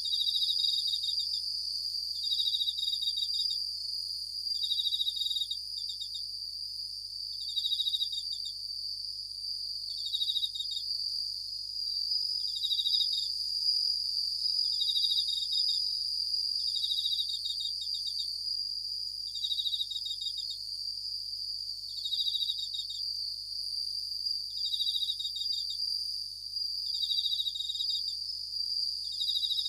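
Japanese bell crickets (suzumushi) singing: short, pulsed, high trills that recur about every two and a half seconds over a steady high ringing tone.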